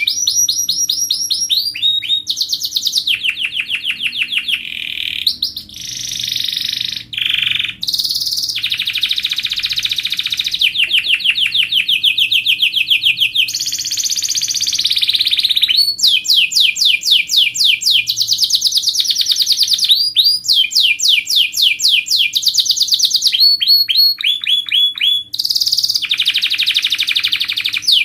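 Canary singing a continuous song of rapid trills, each a fast run of repeated notes, moving from one trill to the next every second or two.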